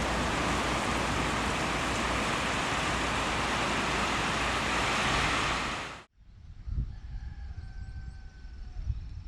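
Storm wind and rain as a loud, steady rush of noise on the microphone. It cuts off suddenly about six seconds in, and in the quiet that follows a distant rooster crows once.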